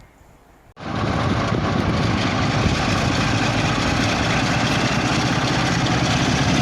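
Diesel passenger train's engine running steadily with a low rumble, starting suddenly about a second in.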